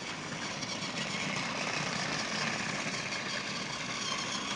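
A battery-powered Trackmaster toy train running on plastic track: a steady small-motor whir with the rattle of wheels on the track.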